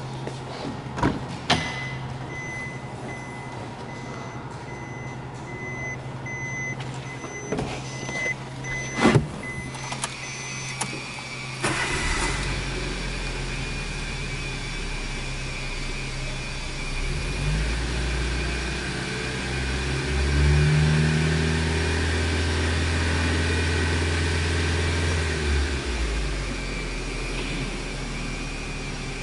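A Subaru R2's 660 cc four-cylinder engine is cranked and catches about twelve seconds in, then idles; about halfway through the revs rise for several seconds and drop back to idle. Before the start there are a few clicks and knocks and a repeating electronic beep.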